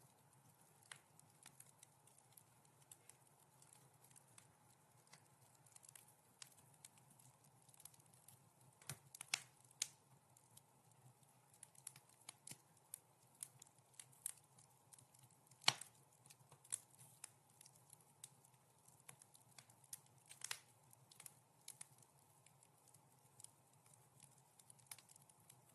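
Wood fire crackling softly in a fireplace: scattered irregular pops and snaps, a few louder ones about nine, sixteen and twenty seconds in.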